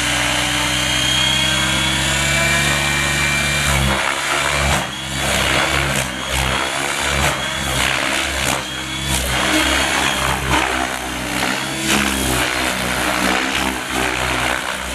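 Gaui X7 electric RC helicopter in flight: a steady rotor and motor hum for about four seconds, then the rotor sound surging and chopping again and again as the blade pitch changes through aerobatic manoeuvres at low head speed.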